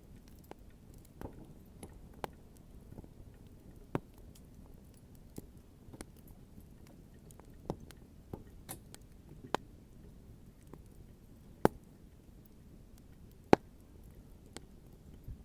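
Wood bonfire crackling: burning wood popping and snapping at irregular intervals, with a few louder sharp pops standing out.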